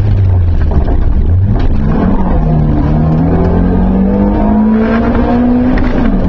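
BMW 318is rally car's 1.8-litre four-cylinder engine heard from inside the cabin, running low at first, then picking up hard about a second and a half in. It climbs steadily in pitch under full throttle and drops sharply near the end as it shifts up a gear.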